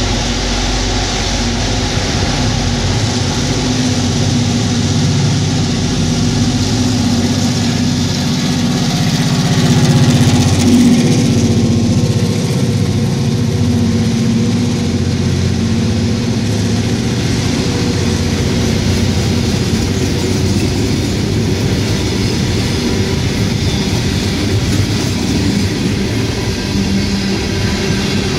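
Long Island Rail Road diesel work train passing close by: locomotive engines run under the steady rumble of hopper cars rolling on the rails. It is loudest about ten seconds in, where the pitch falls.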